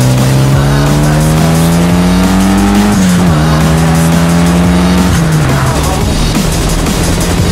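Mitsubishi Lancer Evolution VI's turbocharged four-cylinder engine pulling hard through a gear, its revs rising for about three seconds, then dropping suddenly at a gear change and holding steady. Music plays over it.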